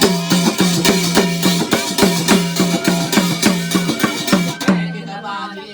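Folk drumming for a jagar: a pitched hand-beaten drum played in a fast, steady rhythm of about four sharp strokes a second, each low tone bending in pitch, stopping abruptly about five seconds in.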